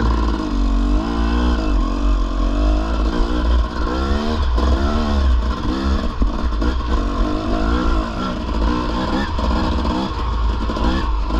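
Dirt bike engine revving up and down over and over as the throttle is worked, over a heavy low rumble.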